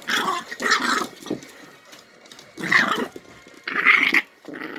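Puppy growling and snarling in about four short, rough bursts.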